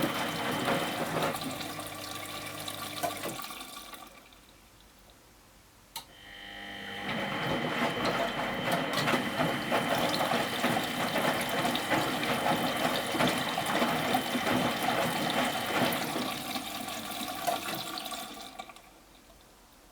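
Miele Professional WS 5426 washing machine's drum turning through the wash water, with a motor whine and sloshing. A turn fades out after a few seconds, then comes a pause and a sharp click. A longer turn of about eleven seconds follows and fades out near the end: the machine's stop-start wash rhythm, the drum reversing between pauses.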